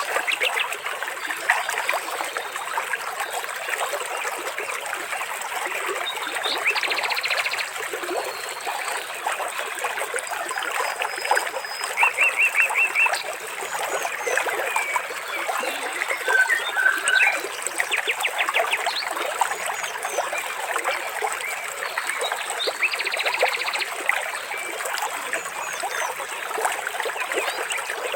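Water trickling and splashing steadily, with birds calling in short rapid trills every few seconds.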